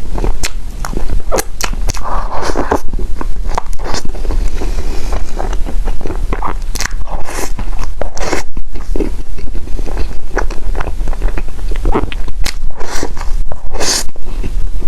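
Close-miked eating: biting and chewing food, heard as many irregular short clicks and crunches, over a steady low hum.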